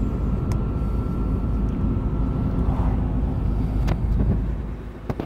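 Truck engine and road rumble heard from inside the cab while driving: a steady low drone with a thin high whine that stops almost three seconds in. The rumble eases off about four and a half seconds in, with a few light clicks.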